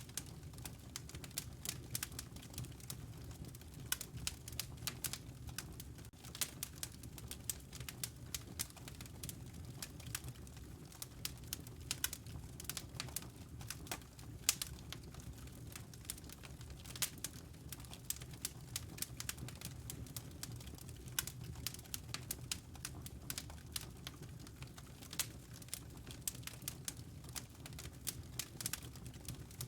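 Wood fire crackling: frequent irregular sharp pops and snaps over a low, steady rumble.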